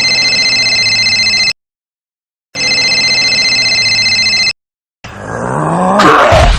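Electronic telephone ring sounding twice, each ring about two seconds of steady tones with a short silence between. Near the end a sound rises steadily in pitch.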